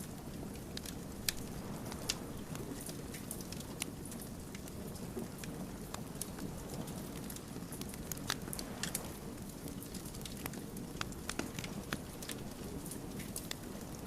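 Wood fire burning and crackling: a steady low rush from the flames with frequent sharp, irregular pops and snaps of burning logs.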